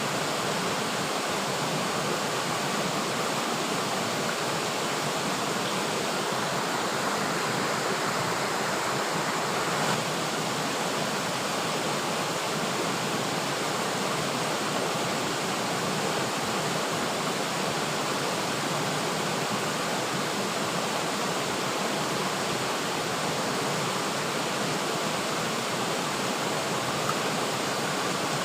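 River water flowing steadily, a constant rushing hiss with no breaks.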